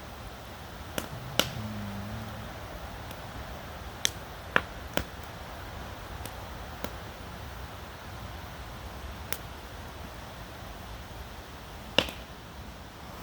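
Campfire crackling: a handful of sharp, irregular pops and snaps from the burning wood, the loudest near the start, in the middle and near the end, over a steady background hiss.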